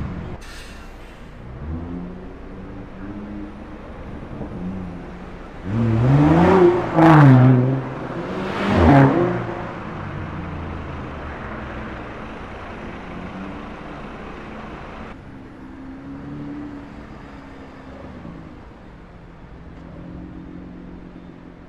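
Sports car engines in slow street traffic: two loud revs about six and nine seconds in, the pitch climbing and dropping each time, then engines running quietly at low revs.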